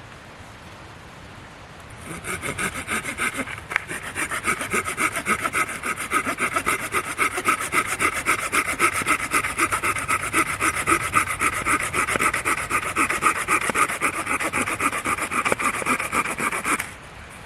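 Hand saw cutting through wood in quick, steady back-and-forth strokes, starting about two seconds in and stopping shortly before the end.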